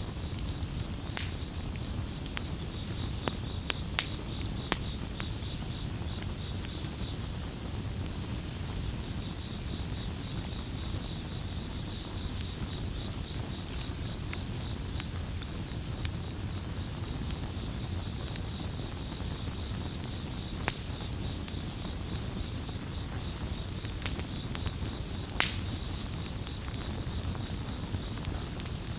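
Campfire crackling with a steady low rumble and scattered sharp pops, the loudest pair about three-quarters of the way through. Crickets trill throughout in a fast, even pulsing chirp, which breaks off for a couple of seconds about a quarter of the way in.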